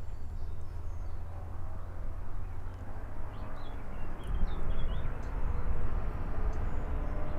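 Low steady rumble with small birds chirping a few times around the middle.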